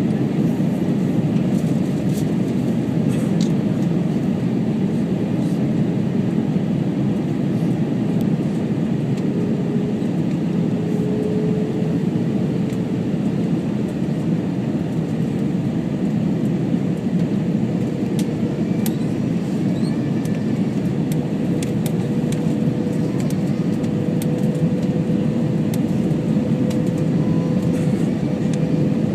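Steady cabin noise of an Airbus A321 in flight: a constant low rush of airflow and engine sound. A faint steady hum comes in about a third of the way through.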